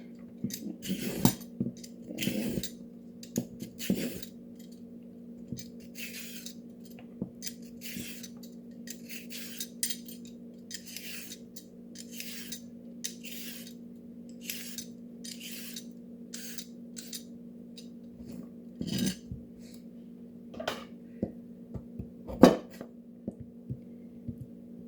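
Carrots being peeled: a run of short scraping strokes, about one a second, over a steady low hum, with a couple of sharper knocks on the worktop near the end.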